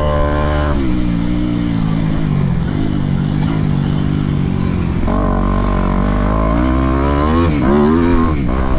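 Motocross bike engine revving at race pace. Its pitch drops just after the start and runs fairly steady, then jumps higher about five seconds in, then rises and falls quickly several times near the end as the throttle is worked.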